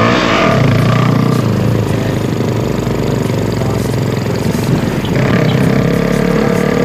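Motorcycle engine running through a homemade exhaust made from a mini-stove LPG gas canister, its pitch rising and falling at the start and then holding steady, with a new steady tone coming in about five seconds in.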